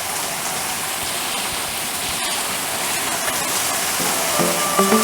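Steady rain falling, a continuous even hiss. About four seconds in, music starts over it with short bowed and plucked notes.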